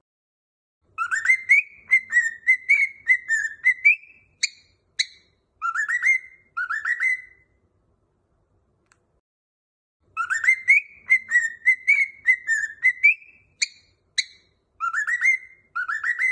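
Cockatiel whistling a short melodic tune of rising and falling notes, with a few sharp chirps near its end. The tune plays twice, the second time after a pause of about three seconds.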